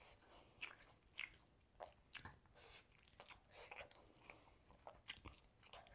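Quiet, close-miked eating: a person chewing and biting into grilled chicken, with irregular short mouth clicks and smacks.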